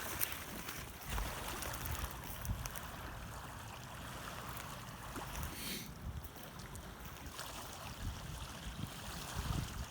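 Outdoor wind buffeting the microphone in irregular low gusts over a steady wash of water along the shore, with a brief rustle about six seconds in.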